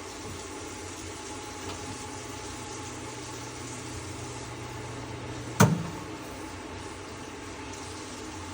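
Stove exhaust fan (range hood) running steadily with a constant motor hum and rushing air. A little past halfway there is one sharp click, after which a low hum drops out.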